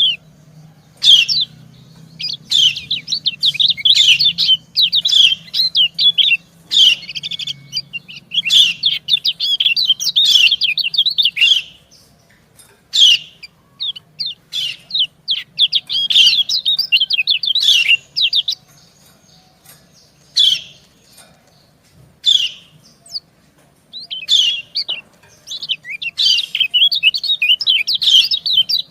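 Lemon-bellied white-eyes (kecial kuning) giving rapid, high chattering 'ciak-ciak' calls in bouts, some lasting several seconds and others brief: a female's calls answered by a male's.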